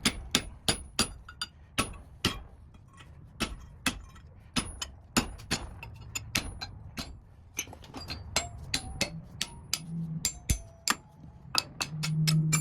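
Metal-on-metal taps on steel, irregular at roughly three a second, each a sharp click with a brief high ring.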